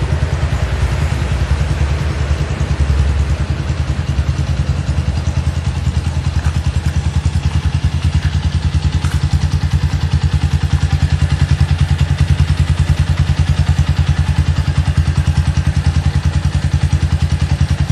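Motorcycle engine idling steadily through a custom aftermarket muffler, with a loud, even low throb. Any harsh break-up in the sound is the recording phone overloading on the loud exhaust, not the muffler itself.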